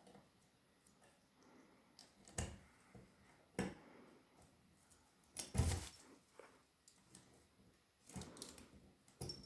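Scattered light clicks and a few sharp knocks from a grey parrot handling the pieces of a food game. The loudest knock comes about five and a half seconds in.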